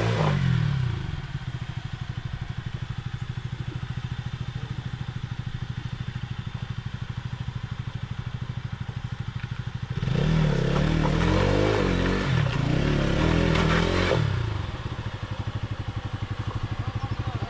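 Motorcycle engine idling with an even pulse. About ten seconds in it is revved harder for about four seconds, then settles back to idle.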